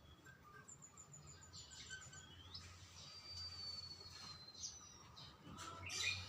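Faint small songbird song: a quick run of about ten short, very high notes, then a long thin whistle that slowly falls in pitch, with a short sliding note near the end.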